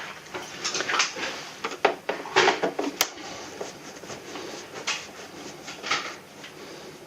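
Air conditioner's plastic parts being handled during disassembly: irregular clicks, knocks and scrapes, loudest around two to two and a half seconds in.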